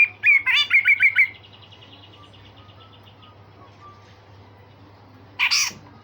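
Cucak jenggot (grey-cheeked bulbul) singing: a quick run of about seven sharp, repeated whistled notes at the start, then one short harsh rasping call (besetan) near the end.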